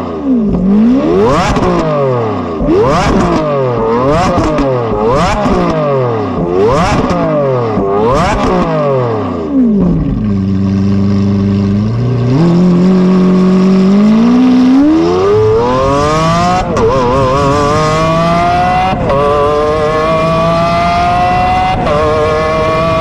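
Apollo Intensa Emozione's naturally aspirated 6.3-litre Ferrari V12, revved hard while standing still, with a sharp rise and fall in pitch about every second and a half. It then drops to a steady idle for a couple of seconds before the car pulls away. The engine climbs steadily in pitch under acceleration, with three upshifts in the second half, each a sudden drop in pitch.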